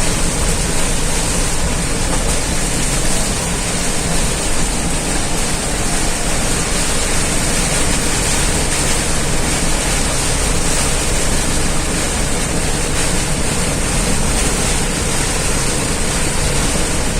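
Heavy rain pouring down in strong wind: a loud, steady rush of rain.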